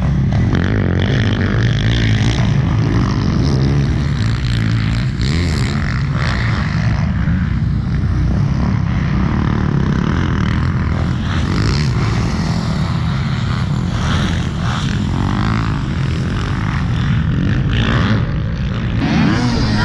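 Motocross dirt bike engine running hard while being ridden, its pitch rising and falling as the throttle opens and closes.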